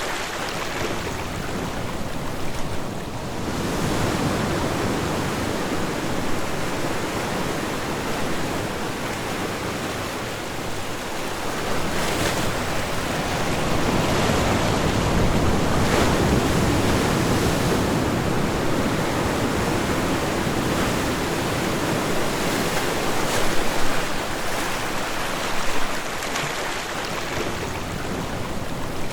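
Ocean waves breaking and washing on a shore, a continuous rushing surf that swells and eases, with a few brief louder splashes.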